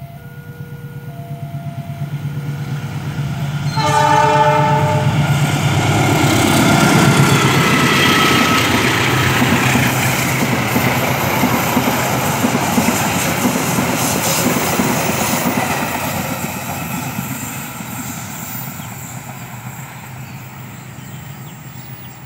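Passenger train passing close by: the locomotive's horn sounds in short blasts as it approaches, then one loud blast about four seconds in as it goes by. The string of coaches follows with the wheels rumbling and clattering on the rails, loudest a few seconds after the horn and slowly fading away.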